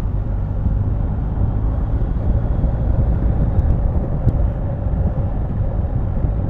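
Motorcycle riding along at a steady speed: a continuous engine drone mixed with road and wind noise.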